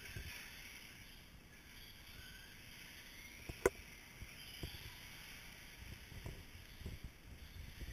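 Faint whine of electric RC short course trucks on the track, rising and falling as they speed up and slow down. There is a sharp click about three and a half seconds in, and a few light knocks near the end.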